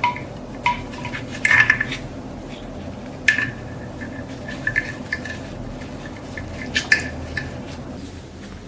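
Metal parts clinking and tapping against each other as they are handled: a handful of sharp clinks at irregular moments, some with a brief ring, over a steady low hum.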